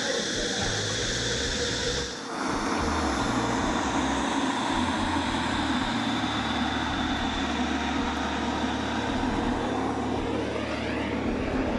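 Pegasus SP model turbine of a large radio-controlled F-100 jet running in flight: a steady high whine over a rush of exhaust, with a brief dip about two seconds in.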